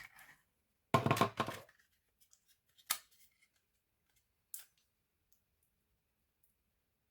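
Handling noises from working on a laptop by hand: a short scraping rustle about a second in, then a sharp click and a lighter click.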